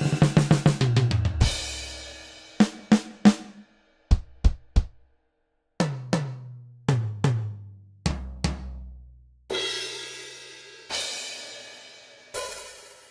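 Sampled acoustic drum kit from Roland DrumStudio Acoustic One software: a quick fill ending on a crash cymbal, then single hits on each drum in turn (snare, then toms stepping down in pitch to the floor tom), then three separate cymbal strikes left to ring out.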